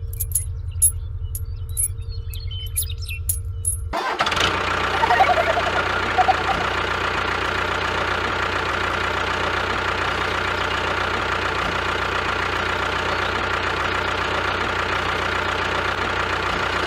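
A machine running steadily: a low rumble with light ticks, then about four seconds in it changes abruptly to a louder, fuller running noise that holds steady.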